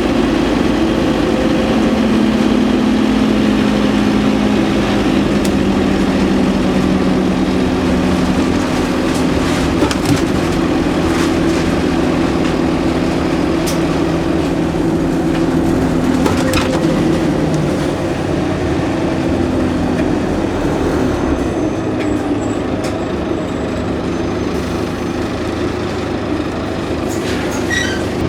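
Scania N230UD OmniCity double-decker bus under way, its five-cylinder diesel engine and ZF automatic gearbox running steadily. The engine note shifts a couple of times and eases off a little in the later part.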